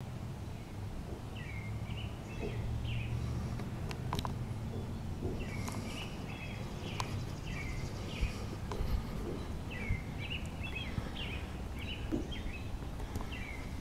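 A songbird calling in short chirping phrases, repeated in groups, over a steady low outdoor rumble, with a few faint clicks.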